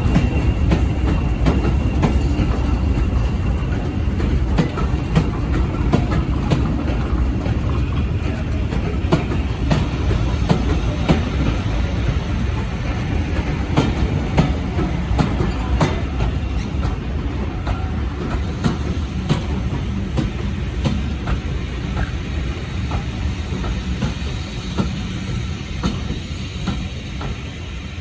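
Diesel-hauled train running on jointed track: a steady low rumble with wheels clicking over the rail joints, gradually growing quieter toward the end.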